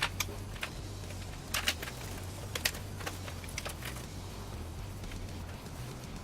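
Scattered light clicks and taps of computer parts being handled, mostly in the first few seconds, over a steady low hum.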